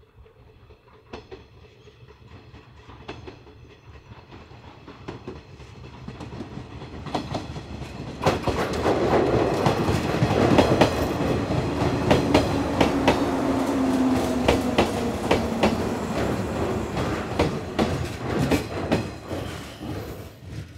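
Electric commuter train on the JR Nara Line coming closer and running along the platform. It grows from faint to loud, with the wheels clacking over rail joints over a steady rumble, and cuts off suddenly near the end.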